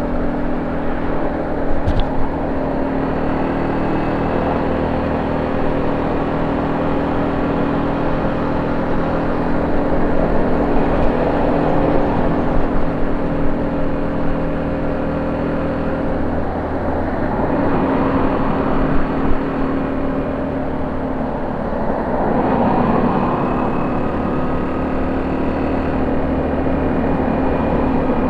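Honda C70's single-cylinder four-stroke engine running through a banana-shaped 'pisang' aftermarket exhaust, ticking over steadily, with two short blips of the throttle about two-thirds of the way through.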